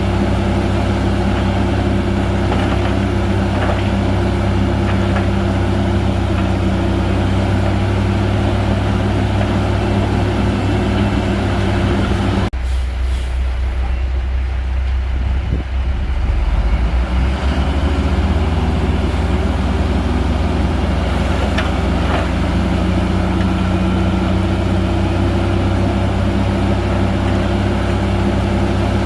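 Heavy bulldozer's diesel engine running steadily under load. About twelve seconds in the sound changes abruptly, with the higher noise dropping away, then the engine builds up again a few seconds later.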